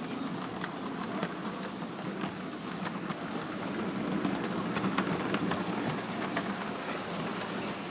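A model train running on an exhibition layout: a steady rumbling hiss with scattered clicks, over the background hubbub of the hall.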